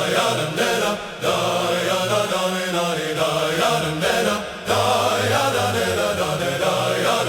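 Music with a chanting choir of voices over a steady low bass note, broken by short pauses about a second in and midway through.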